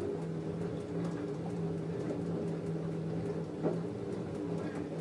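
LG F10A8HDS5 front-loading washing machine turning its drum during the wash phase of a cotton cycle: a steady motor hum with a few soft knocks from the tumbling laundry.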